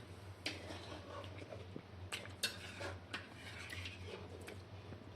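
A few scattered light clinks and taps, like a utensil or dish, over a low steady hum.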